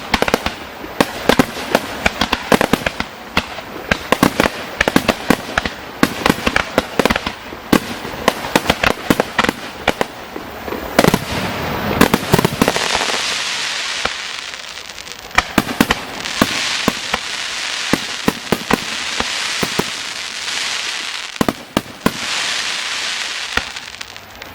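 Fireworks display: a rapid string of sharp shell bursts and bangs, then from about halfway rolling waves of dense crackling with scattered bangs.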